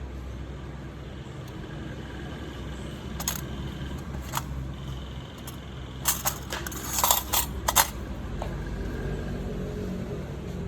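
Light clicks and clinks of small hard objects, two single ones and then a quick cluster of several, over a steady low hum.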